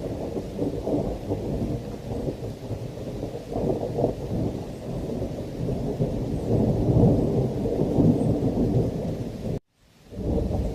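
Thunderstorm: rolling thunder rumbling over heavy rain, swelling loudest about seven seconds in. Near the end the sound cuts out abruptly for a split second, then resumes.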